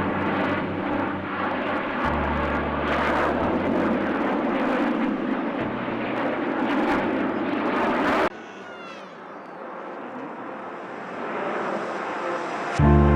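Aircraft flying past with a loud rushing engine noise, which cuts off abruptly about eight seconds in. A quieter stretch follows, and engine noise builds again near the end.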